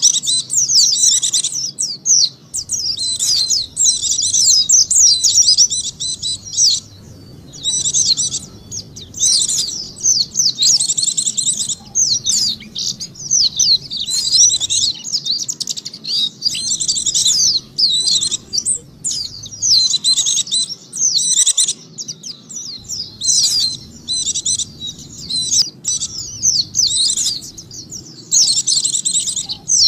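White-eye (pleci) song: high, rapid twittering in phrases lasting a few seconds with short pauses between them, a lure call for drawing in white-eyes.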